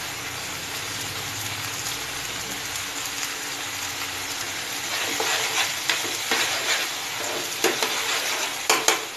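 Chopped onion, capsicum and garlic sizzling in oil in a frying pan, with tomato and soya sauce just added. From about five seconds in, a steel spoon stirs and scrapes through the pan in several short strokes.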